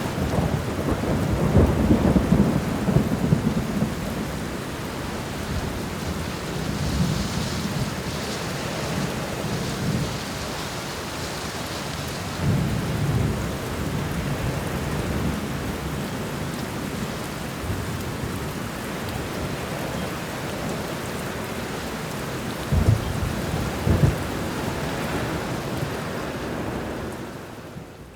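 Steady heavy rain with rolls of low thunder rumbling in three times: at the start, about halfway through and near the end. The sound fades away sharply at the very end.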